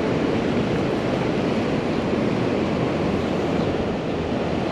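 Steady rushing roar of water pouring over a dam.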